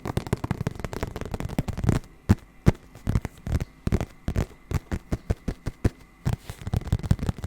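Close-up tapping and scratching on an object: a quick, irregular run of sharp clicks and taps, several a second.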